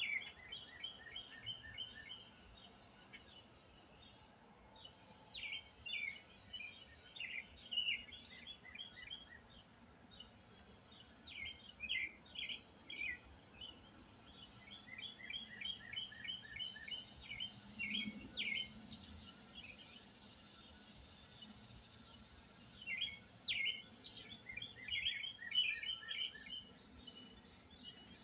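Songbirds singing: bursts of quick, high chirping phrases that come every few seconds.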